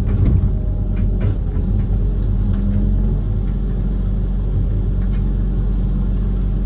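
Diesel engine of a Kobelco SK130 amphibious excavator running at a steady, even rumble, with a few faint clicks and knocks about one, two and five seconds in.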